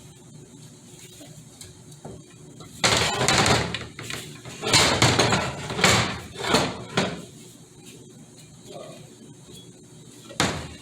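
Clattering and knocking from transmission parts being handled and worked on, in a few loud bursts: one about three seconds in, a cluster a couple of seconds later, and a short one near the end.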